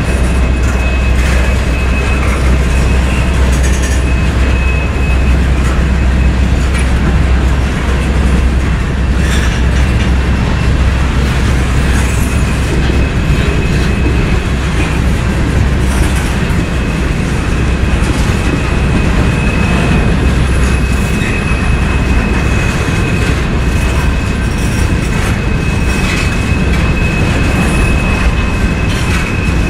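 Freight train cars rolling steadily past on the rails, with a thin, high-pitched wheel squeal held through most of it.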